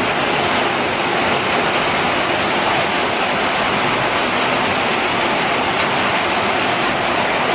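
Heavy monsoon rain pouring down in a steady, loud hiss.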